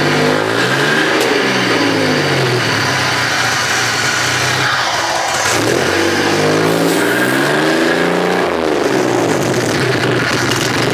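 Pontiac Grand Prix GTP's supercharged 3.8-litre V6 revved three times through a custom exhaust, each rev climbing and then dropping back toward idle.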